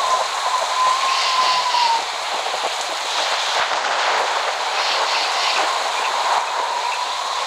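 Steady rain, an even hiss. A thin whistle-like tone runs through it for the first two seconds, dips slightly and stops, then comes back faintly near the end.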